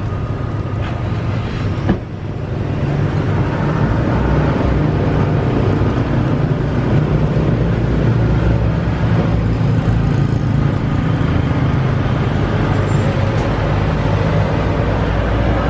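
A motor running steadily with a low hum, with a brief knock about two seconds in.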